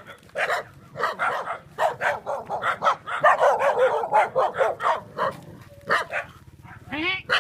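Several dogs barking over and over, with the barks overlapping most thickly in the middle.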